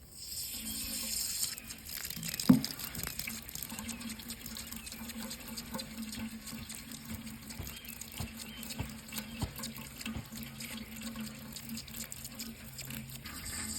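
Running water, a steady splashing rush, with one sharp knock about two and a half seconds in.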